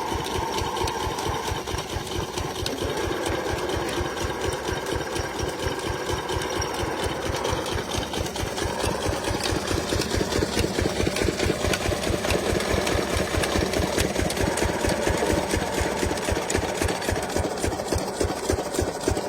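8 hp Lister single-cylinder diesel engine running steadily, driving a Kalsi water pump, with an even, rapid beat of firing strokes.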